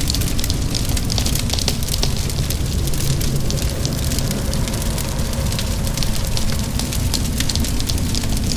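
Wood fire crackling, with many small irregular pops, over a steady low rumble and the hiss of rain.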